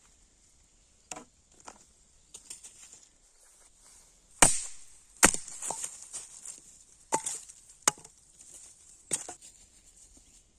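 About seven sharp chopping blows at irregular intervals, the loudest two near the middle, over a faint steady high hiss.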